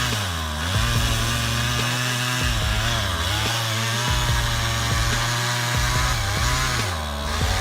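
Chainsaw engine running hard through a cut, its pitch dipping briefly a few times as it bogs under load.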